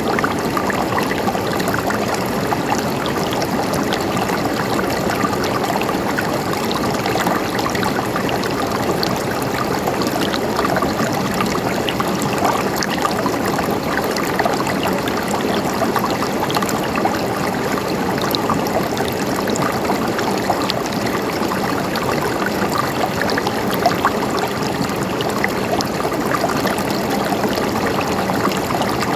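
Mountain stream flowing steadily, an even rush of water with small splashes and trickles throughout.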